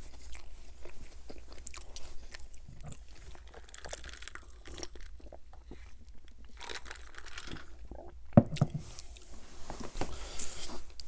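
Close-miked mouth sounds of chewing a Whopper Jr. burger: a run of small wet clicks and smacks. Partway through comes a drink from a glass, and there is one sharper knock about eight and a half seconds in.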